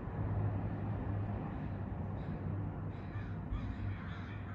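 Birds calling, a run of short repeated calls starting about halfway through, over a low steady hum.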